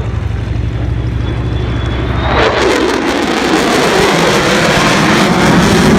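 F-35A Lightning II jet flying past. A low rumble with a faint high whine gives way, a little over two seconds in, to a sudden loud jet roar whose pitch falls as it goes by, growing louder toward the end.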